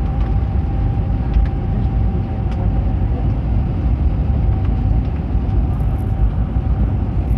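Cabin noise aboard an Airbus A320neo on the ground: a steady low rumble with a steady whine from the engines running through it, and a few faint ticks.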